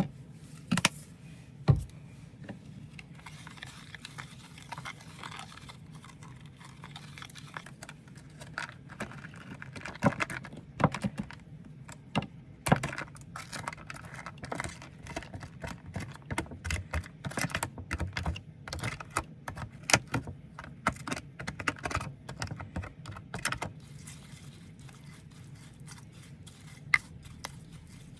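Irregular clicking, knocking and rattling of small objects being handled, thickest between about ten and twenty-four seconds in, over a faint low steady hum.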